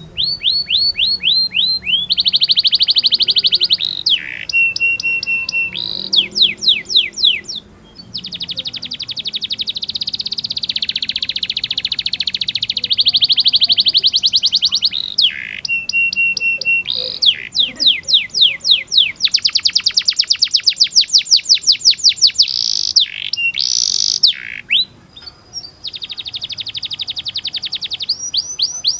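Domestic canary singing a long, unbroken song of fast rolls and trills, each phrase a rapid run of repeated notes, with the phrase type changing every second or two and a few short held whistled notes between.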